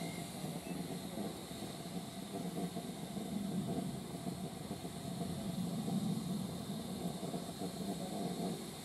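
Steam locomotive giving a steady low rumble with hiss, swelling gently now and then.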